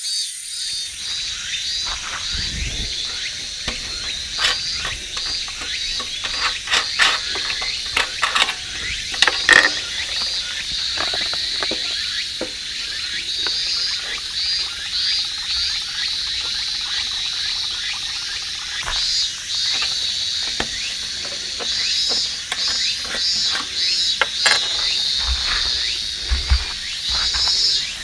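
Outdoor chorus of calling insects, rapid pulsed chirps repeating steadily with a thin high steady tone above them. Scattered sharp crackles and clicks come over it, thickest in the first half.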